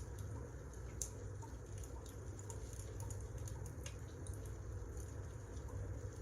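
Wood fire crackling: scattered sharp pops and ticks over a steady low rumble of burning logs.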